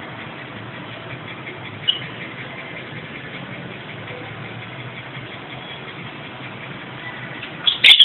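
Steady background hiss with a few faint, brief chirps from pet lovebirds, and a cluster of sharp, loud sounds near the end.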